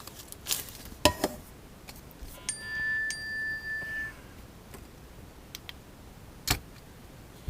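A phone's alert chime: two bell-like tones, the second about half a second after the first, ringing for about a second and a half. There are a few sharp clicks before and after it.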